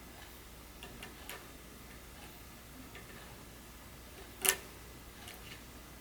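Small, faint clicks and ticks of tools and phone parts being handled during an iPhone screen repair, with one sharp, much louder click about four and a half seconds in.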